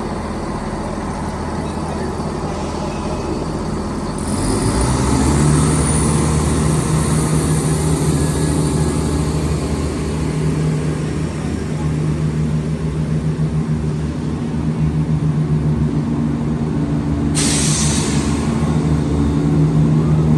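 Class 168 diesel multiple unit's engines idling, the drone stepping up louder about four seconds in, with a short hiss of air near the end.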